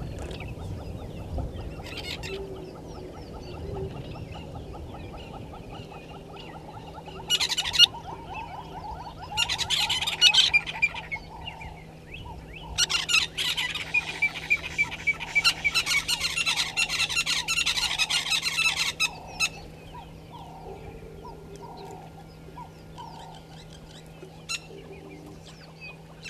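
Wild birds calling outdoors: three loud bursts of rapid, repeated calls, the longest lasting about six seconds in the middle, over fainter scattered birdsong and a steady low hum.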